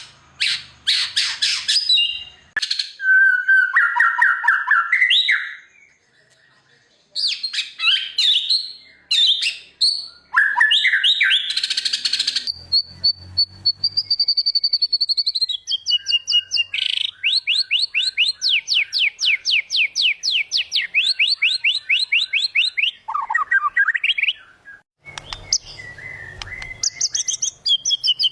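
White-rumped shama singing a varied, showy song of whistles, chatters and mimicked phrases. It includes a long held whistle and a fast run of repeated notes.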